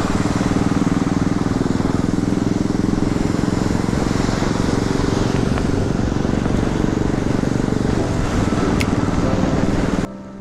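Single-cylinder Royal Enfield motorcycle engine running steadily under way, a fast even thudding with wind noise over it, cutting off abruptly near the end.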